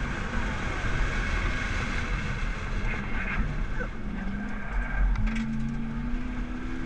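Nissan GT-R R35's twin-turbo V6 running on track, heard from inside the cabin under a heavy low rumble of road and wind noise. The engine note comes back and rises gently in pitch over the last two seconds or so.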